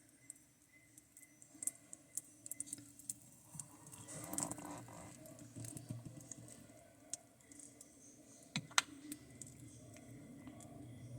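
Red-footed tortoise eating raw beef: faint, irregular small clicks and crunches of its beak biting and chewing, with a short louder scuffle about four seconds in and one sharp click near the end.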